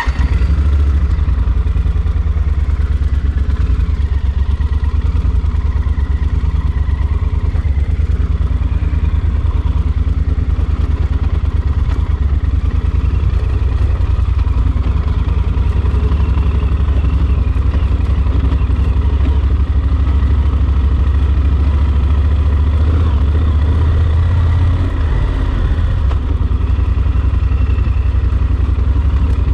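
Yamaha Super Ténéré XT1200's parallel-twin engine running steadily, its low note wavering briefly about 24 seconds in.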